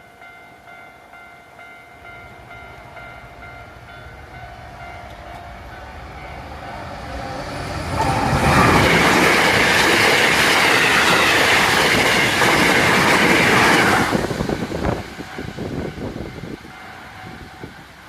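Level crossing warning bell ringing as a steady tone while a train approaches. The train then passes close by: its running noise and wheel clatter build, stay loud for about six seconds, then fade away.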